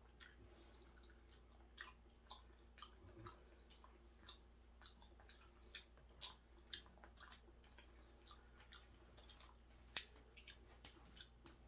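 Faint chewing: irregular soft mouth clicks, a few each second, with one sharper click about ten seconds in.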